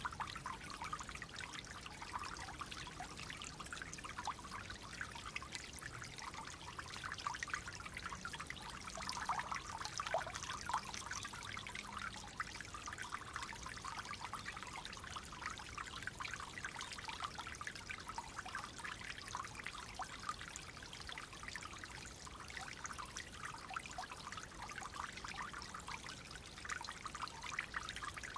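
Clear water flowing and trickling steadily, a continuous watery splashing with no break.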